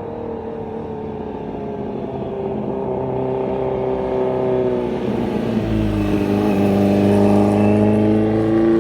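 2017 Kawasaki Z900's inline-four through an SC Project S1 titanium slip-on exhaust with the baffle (dB killer) removed, running as the bike comes closer and getting louder toward the end. The engine note dips about halfway through, then climbs again.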